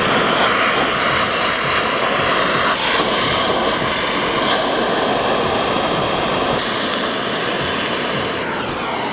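Gas torch flame roaring steadily while lighting campfire wood, then cut off suddenly.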